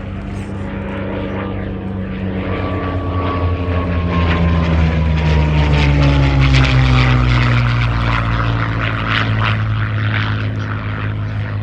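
Westland Lysander's radial engine and propeller flying past, growing louder to a peak just past the middle and dropping in pitch as it passes.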